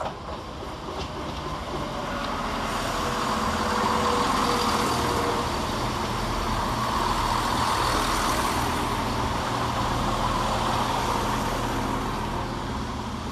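ScotRail Class 170 Turbostar diesel multiple unit arriving, a steady rumble of engines and wheels on the rails. It grows louder over the first few seconds and eases off near the end.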